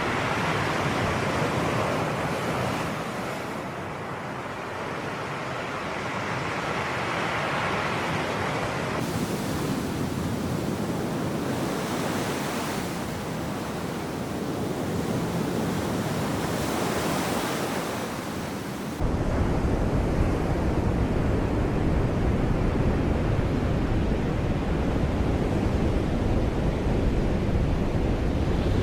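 Sea waves washing and surging in steady swells. About two-thirds of the way through the sound changes abruptly to a louder, deeper rumble.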